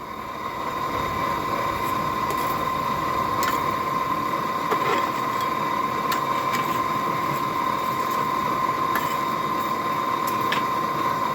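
Blacksmith's forge running: a steady rushing noise with a constant high whine that swells over the first second and then holds, with a few faint light clinks.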